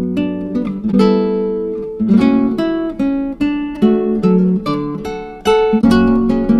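Acoustic guitar music: plucked and strummed chords, each ringing and fading before the next.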